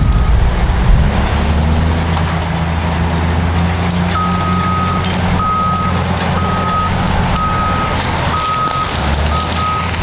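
Caterpillar bulldozer's diesel engine running, its pitch climbing a little in the first two seconds, then its reversing alarm beeping about once a second from about four seconds in as the dozer backs up.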